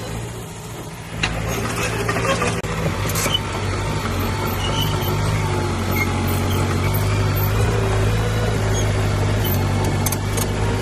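Heavy diesel engine running, quieter for about the first second, then louder with a few knocks and clanks over the next couple of seconds before settling into a steady drone.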